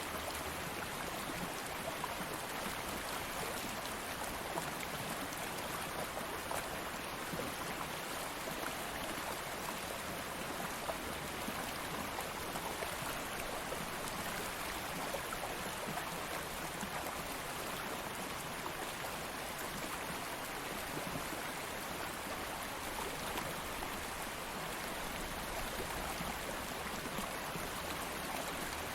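Stream water flowing and babbling steadily, an even rushing wash without breaks.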